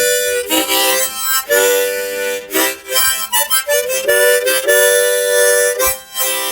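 Harmonica playing a song intro: chords of several notes sounding together, held for a second or less at a time and broken by short gaps.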